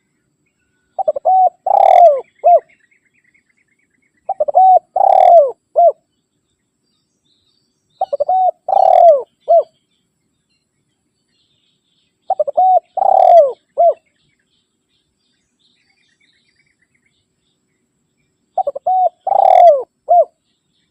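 Spotted dove (tekukur) cooing, five calls in all. Each call is a couple of quick short coos, then a longer, louder coo, then one short closing coo. The calls come about four seconds apart, with a longer gap before the last.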